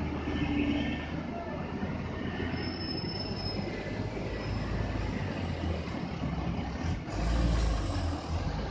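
Heavy truck rolling slowly over a rough, bumpy road: a steady low engine rumble under continuous rattling and creaking, with a brief high squeal about three seconds in. The low rumble swells near the end.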